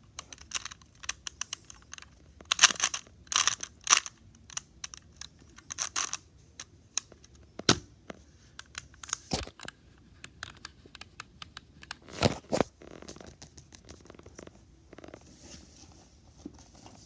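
Fidget toys and their plastic being handled: irregular crinkling, crackling and sharp clicks, loudest a few seconds in and again around twelve seconds in.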